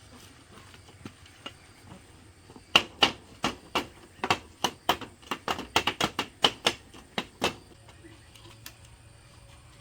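A quick, irregular run of about twenty sharp knocks over some five seconds, starting about three seconds in: a hand tool striking bamboo during work on a bamboo wall.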